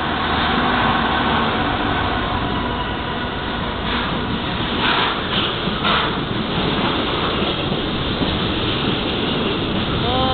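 Diesel-hauled container freight train running through the station: the locomotive passes first, then a steady rumble of wagons and wheels on the rails, with a few sharp clanks about four to six seconds in.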